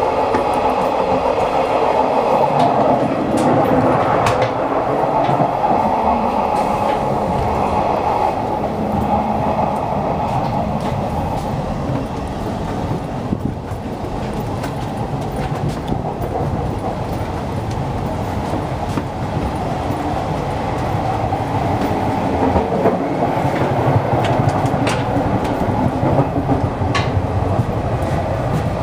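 Steady running noise of the Hokutosei sleeper train's carriage on the rails, heard from inside the corridor, with a few sharp clacks.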